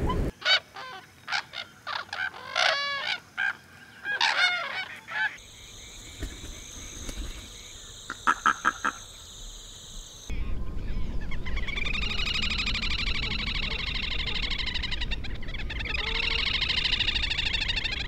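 Water-bird calls: first a run of separate honking calls, then a few short calls in a quick cluster. From about ten seconds in, a little grebe gives long, rapid trills that waver up and down in pitch.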